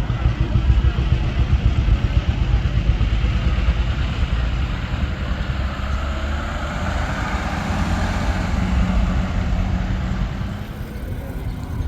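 A classic vehicle's engine running close by, with a low pulsing exhaust that is loudest in the first few seconds and eases off after about six seconds.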